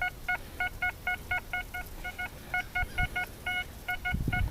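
Metal detector's audio tone: rapid short beeps at one steady pitch in irregular runs, the detector signalling metal targets as the coil sweeps over the ground.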